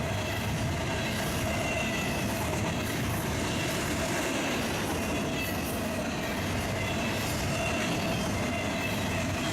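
Freight train cars rolling past in a steady, unbroken rumble, with thin high squeals from the steel wheels coming and going.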